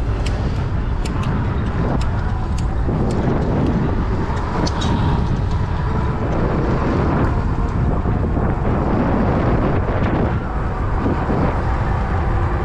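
Steady low rumble and road noise of a vehicle in motion, with a few faint clicks.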